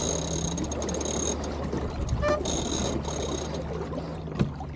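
Small sailing keelboat underway in light wind: steady hull and water noise with a low hum, and twice a high, steady whine lasting about a second each.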